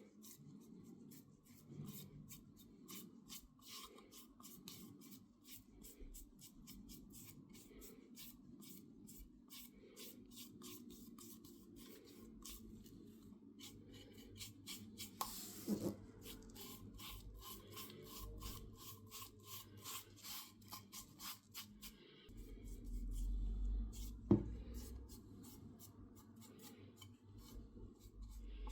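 Quick, light rubbing strokes by hand, several a second, like abrasive work on the grinder's parts. A couple of sharper knocks come about halfway through and again later.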